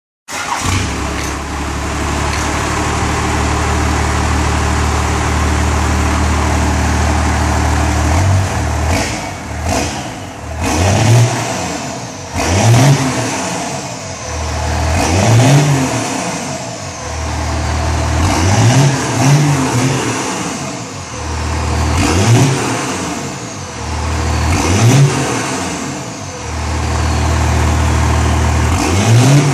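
First-generation Dodge Cummins 5.9 L 12-valve inline-six turbo diesel idling steadily, then revved again and again from about eight seconds in, each rev rising and dropping back to idle about every three seconds. The engine has a dynamic timing advance kit fitted and its cold-start advance (KSB) left unplugged.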